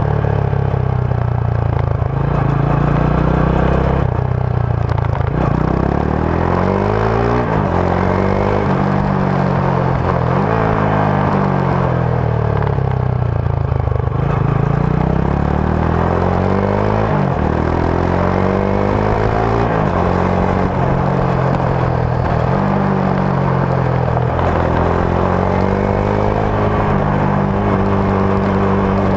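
Rusi Sigma 250 motorcycle's stock exhaust under way, the engine pitch climbing as it pulls and dropping back at each shift or throttle lift, over and over.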